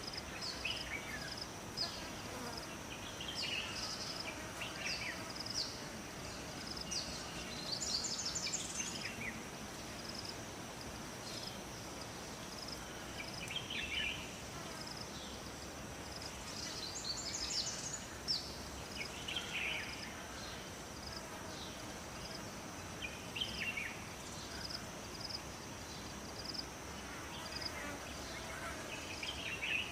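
Forest ambience: an insect gives a steady high buzz with a regular pulse of high chirps, while birds call with short, falling chirps every few seconds over a soft, even hiss.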